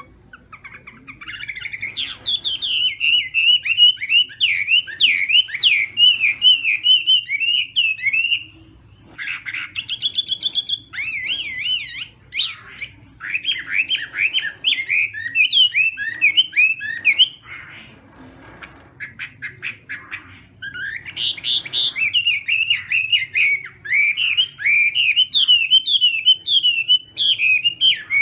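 Chinese hwamei singing loud, fast phrases of varied sweeping whistled notes. The song comes in three long runs, with short breaks between them, one of which holds a few brief clicky notes.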